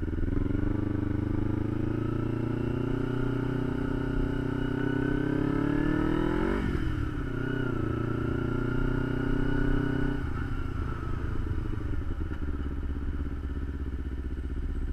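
Kawasaki Ninja 250's parallel-twin engine pulling under acceleration, its pitch rising for about six seconds, then dropping sharply at a gear change. It holds a steady note until about ten seconds in, when the throttle closes and it falls back to a lower, steady sound.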